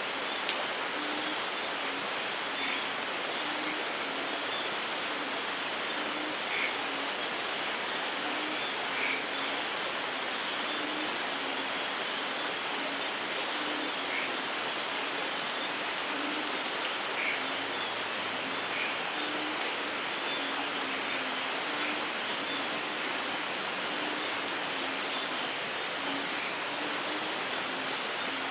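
Steady rain falling, an even hiss at a constant level, with a faint low pulse repeating irregularly beneath it and a few scattered brief higher sounds.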